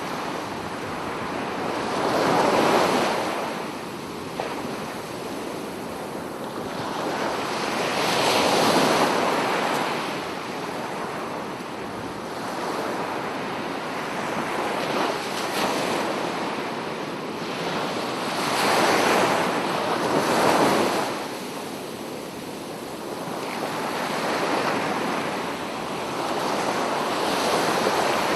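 Sea waves breaking and washing onto the shore, a continuous rush of surf that swells and ebbs every few seconds.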